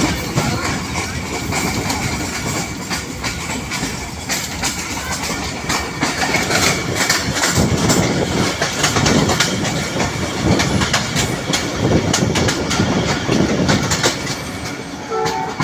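Passenger train running along the track: a steady rumble with wheels clattering over the rails.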